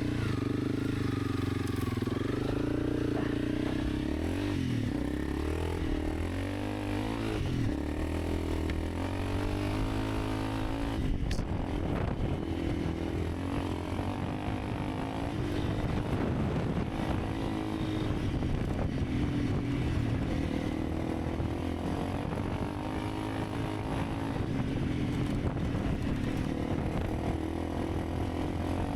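Honda CRF300 Rally's single-cylinder engine running on the move, its revs shifting up and down over the first several seconds and then holding steadier.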